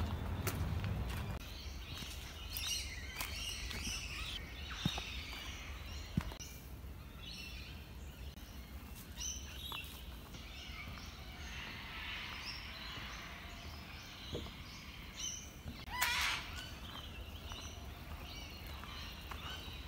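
Wild birds chirping and calling on and off in forest bush, over a steady low background rumble. A brief, louder burst of sound comes near the end.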